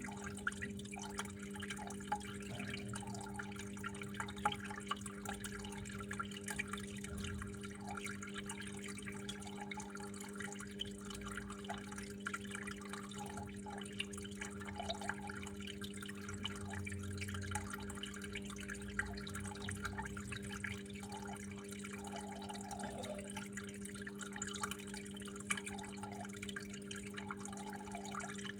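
Water trickling and dripping steadily, with small irregular drips and splashes over a steady low hum.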